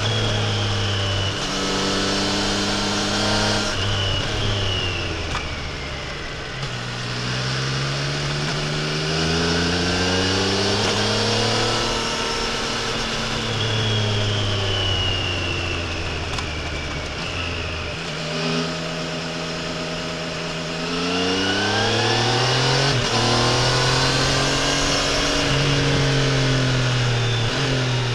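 Triumph Tiger Sport 800 inline three-cylinder engine and exhaust under way, the engine note climbing in short steps through quick upshifts. It falls away as the bike slows about four seconds in and again in the middle, then builds back up through the gears from about nineteen seconds. Throughout, a steady rush of wind and road noise sits under the engine.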